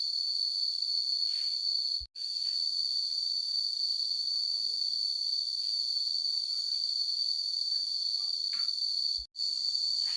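Steady, shrill chorus of insects, likely crickets, holding one high pitch throughout. It cuts out to silence for an instant twice, about two seconds in and just past nine seconds. A few faint short taps sound beneath it.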